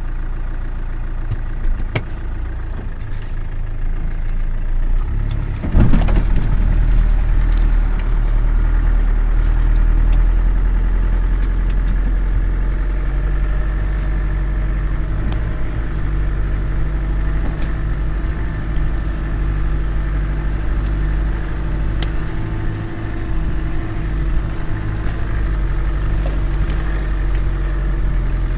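Land Rover Defender's engine running steadily while dragging a log, with scattered clicks and knocks. About six seconds in there is a clunk and the engine gets louder, then holds steady.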